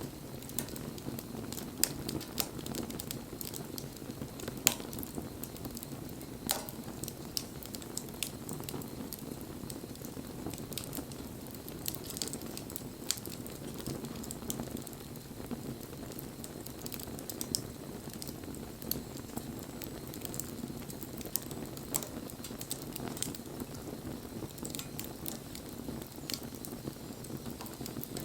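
Wood campfire crackling: frequent sharp pops and snaps over a steady low rush of burning flames, with a louder pop a little under two seconds in and another just under five seconds in.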